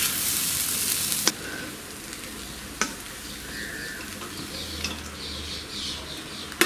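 Fried rice sizzling in a steel kadai as boiled rice is stirred into the fried vegetables, chicken and prawns with a wooden spatula. The sizzle is loudest for the first second or so, then settles quieter, with two sharp knocks about a second apart early on.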